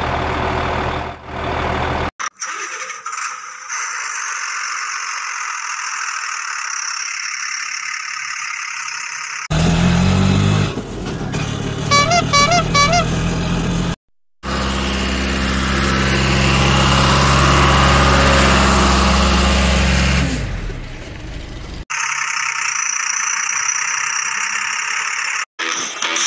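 A string of vehicle sounds joined by abrupt cuts: an engine running in several stretches, with a run of short horn-like tones about twelve seconds in and stretches of steady hiss between.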